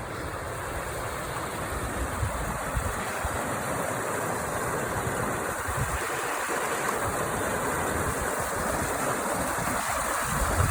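Creek water rushing, a steady hiss that slowly grows a little louder.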